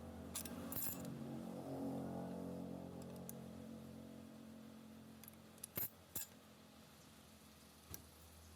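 Faint sharp clinks of metal parts being handled, a few near the start and a close pair about six seconds in, over a steady low hum.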